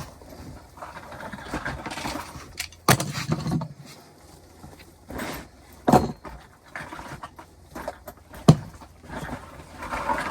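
Scattered knocks and clunks with rustling between them, from equipment being handled and set down. The loudest knocks come about 3, 6 and 8.5 seconds in.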